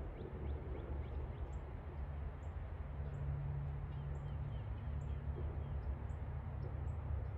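Small birds chirping with short, high repeated notes, heard faintly over a steady low rumble.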